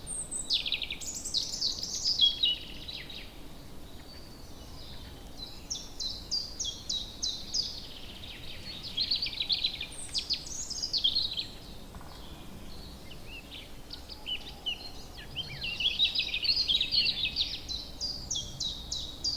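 Songbirds singing in long phrases of rapid, high chirping notes, three bouts with short pauses between, over faint steady background noise.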